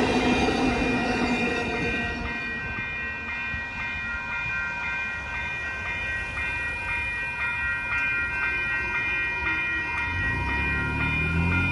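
Railroad crossing warning bells ringing steadily, while the rumble of a passing train fades away over the first couple of seconds. A low engine drone comes in near the end.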